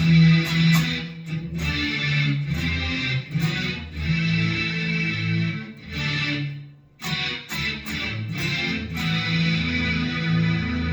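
Electric guitar played through a Boss SY-200 guitar synthesizer pedal on its Voice Pad preset, run into a Joyo American amp simulator: sustained synth-pad chords, with a short break about seven seconds in.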